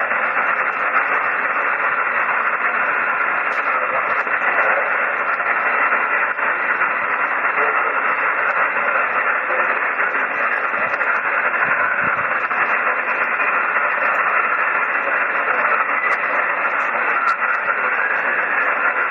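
HF amateur radio receiver on single sideband putting out steady static and hiss across its narrow voice passband, a constant rushing noise with no clear voice in it.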